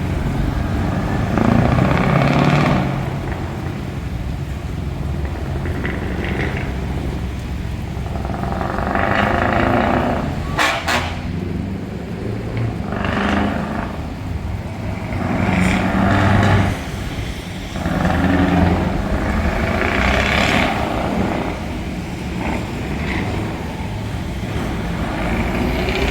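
Open-piped V8 truck engines idling with a low drone, revved up in about six swells of a second or two each. A single sharp crack comes about eleven seconds in.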